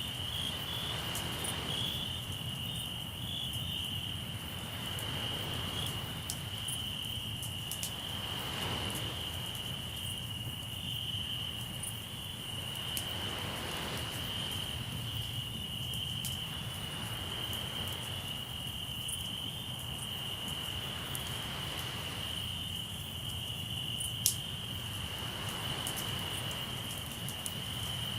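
Crickets chirring in a steady high trill, over waves washing ashore every few seconds and a campfire crackling with scattered small pops and one sharp pop near the end.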